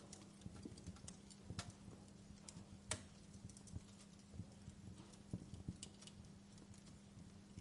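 Wood fire crackling: irregular small pops and snaps, with a sharper pop about three seconds in, over a faint steady low hum.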